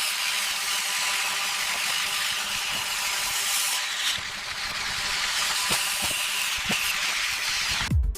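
A steady, even hiss like a spray, dipping slightly about four seconds in and cutting off abruptly near the end.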